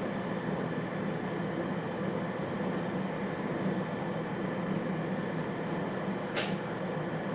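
JR Hokkaido 721 series electric train running, heard from inside the motor car KuMoHa 721-3018: a steady rumble of wheels and traction equipment with a low hum. A brief hiss about six seconds in.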